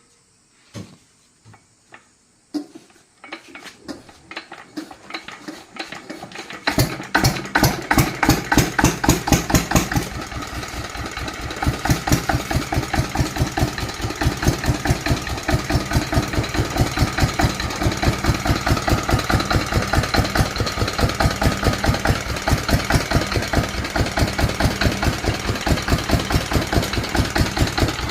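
Yanmar single-cylinder engine starting: a few clicks, then it catches about three seconds in and picks up speed. It runs loud with distinct single firing beats, then settles about ten seconds in to a steady, even run.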